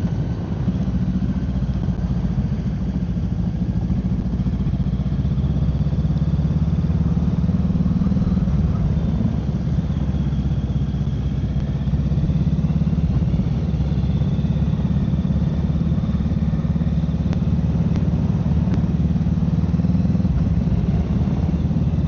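Honda Rebel 500's parallel-twin motorcycle engine running steadily at low revs, a continuous low rumble.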